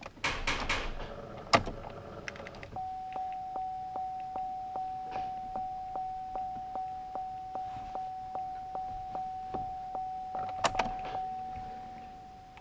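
A truck door is handled with clatter and a sharp click. Then the truck's warning chime dings steadily, about three dings a second, on one pitch. Two sharp clunks come near the end as the chime fades.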